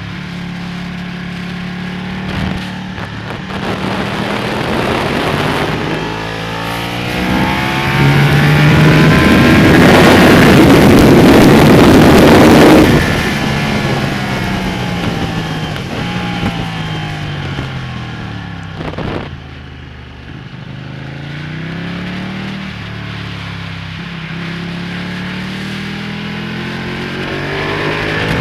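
A Ducati Panigale's V-twin engine at full effort on a race track, revving up through the gears and dropping sharply on downshifts into corners. The loudest stretch comes about a third of the way in, where the engine is buried under a loud rushing noise.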